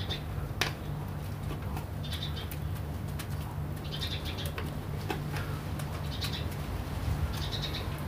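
A small bird chirping in short bursts about every two seconds, over a steady low hum. Light clicks and rustles come from dry sphagnum moss being handled and sprinkled.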